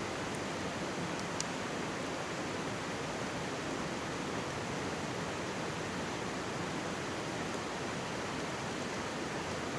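Mountain stream rushing steadily over rocks, with a faint crackle from a campfire about a second and a half in.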